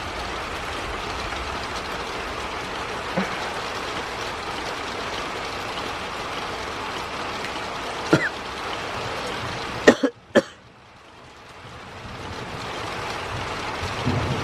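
Steady moderate rain falling, with a few sharp clicks or knocks. About ten seconds in, after two quick clicks, the rain sound cuts out abruptly and then slowly returns, and a low rumble starts near the end.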